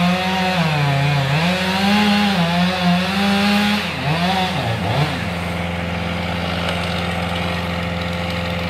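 Chainsaw cutting into a tree trunk, its engine pitch wavering up and down under load. About five seconds in it drops off and settles into a steady, even running note.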